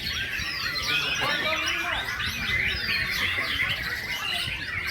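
Several caged white-rumped shamas (murai batu) singing at once, a dense overlapping tangle of fast chirps and quick whistled glides with no pause.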